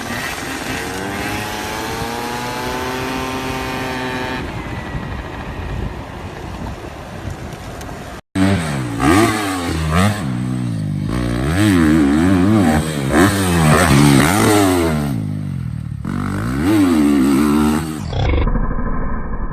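Motocross dirt bike engines running and revving, first a steady rising note, then after an abrupt cut about eight seconds in, loud repeated revs rising and falling in pitch about once a second as the throttle is worked.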